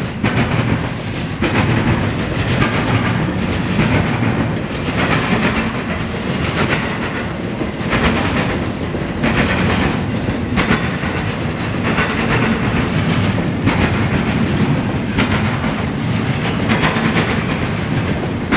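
Intermodal freight train rolling past, its wheels clicking over the rail joints in a steady clickety-clack over a continuous rumble.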